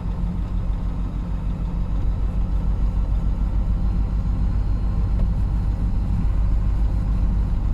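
GAZon Next truck's diesel engine and road noise while driving, a steady low drone that grows slightly louder towards the end.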